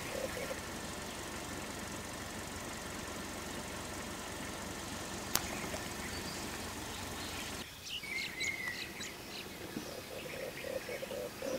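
A steady rushing noise for most of the first seven or eight seconds, with one sharp click about five seconds in; then the noise drops away and birds chirp and call, with a rapidly pulsing call near the end.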